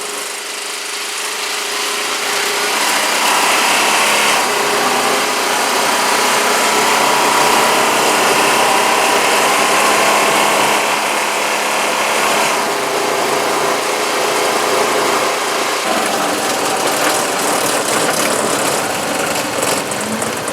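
Engine of a Honda four-wheeler fitted with tracks, running steadily as it rides along pavement.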